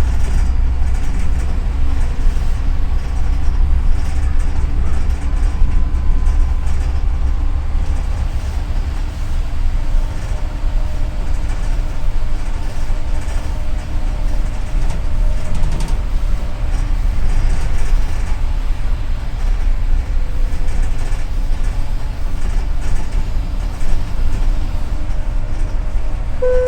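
Steady low rumble of a double-decker city bus heard from inside while it drives: engine hum and road noise, unchanged throughout. A short chime of clear tones starts right at the end.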